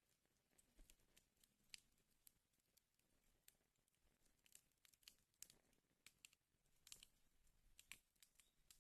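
Fire burning in a fireplace, crackling faintly with irregular small pops and snaps, a few sharper ones scattered through.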